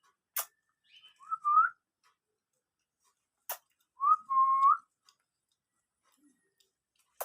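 Two short wavering, rising whistles, one about a second in and one about four seconds in, with three sharp clicks spread between them.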